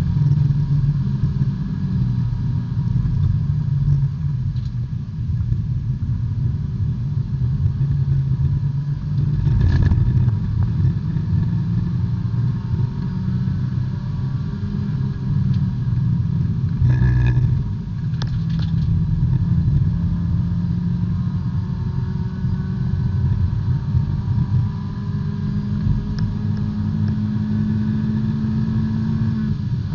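Small-displacement B-Spec race car engine heard from inside the cockpit, its pitch rising and falling as it is driven on track, with a long, slow climb in pitch near the end. Two brief sharp knocks cut through it midway.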